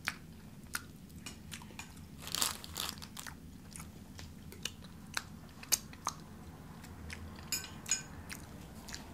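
Close-up eating sounds: chewing and lip smacks on a soft dessert, heard as scattered sharp clicks and short smacks.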